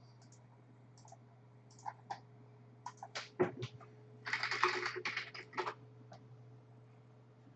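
Computer keyboard typing: scattered keystrokes, then a quick run of keys about four seconds in, over a low steady hum.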